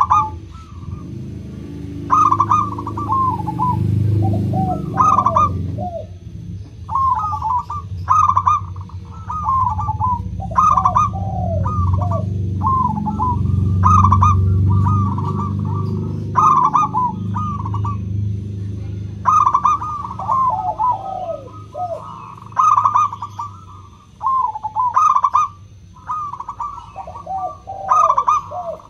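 Zebra doves (perkutut) singing over and over in short, quick phrases of high cooing notes, repeated every second or two, with a low rumble underneath.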